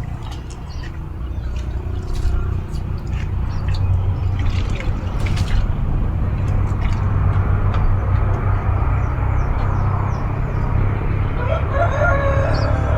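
A rooster crowing near the end, over a steady low hum, with scattered short clicks earlier on.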